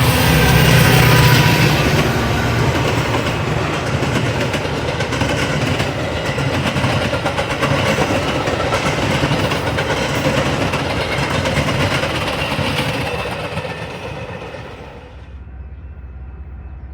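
A train passing close by: a loud, steady rush of wheels and cars on the rails that fades and then drops away sharply near the end.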